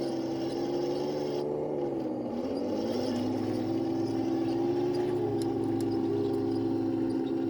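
Electric drive motors and gearboxes of an RC model M46 Pershing tank whining as it drives. The pitch dips about two and a half seconds in, climbs back and holds steady, then cuts off suddenly at the end.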